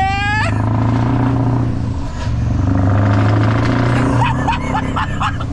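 Scania R500 V8 diesel running through a straight-piped side exhaust, pulling steadily under way with a brief dip about two seconds in before it picks up again.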